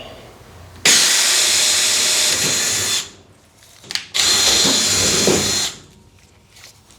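Power drill running in two bursts, about two seconds and then about a second and a half, each starting and stopping abruptly: drilling bolt holes through the firewall for the engine mount.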